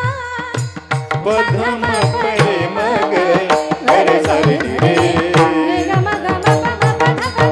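Instrumental interlude of Indian devotional music: drums keep a steady beat under an ornamented, pitch-bending melody line over a held drone.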